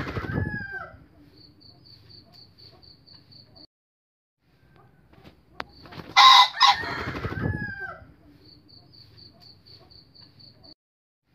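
A fowl's loud, harsh crow with falling notes, heard twice about six seconds apart, each followed by a rapid string of about nine short high pips.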